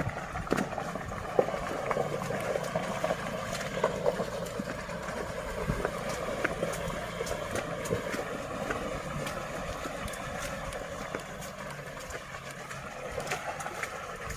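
4x4 pickup truck driving over a rough off-road track: engine running steadily under the rumble of the tyres, with frequent irregular knocks and clatter from the bumpy ground.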